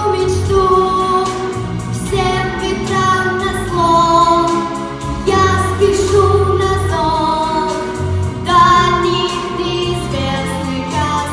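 Pop song: a sung vocal melody over instrumental backing with a steady beat.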